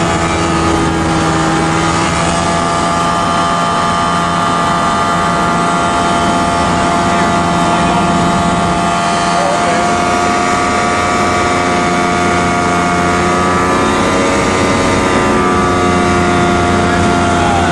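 Engine running steadily at a constant speed, its pitch shifting a little about two seconds in and again near the end.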